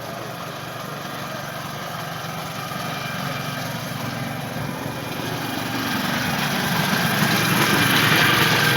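An engine running steadily, getting louder until near the end.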